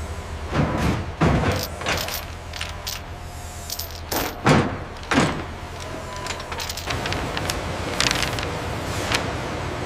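Steady low machine hum with a series of sharp knocks and clatters, the loudest about half a second to five seconds in; the hum drops away about seven seconds in.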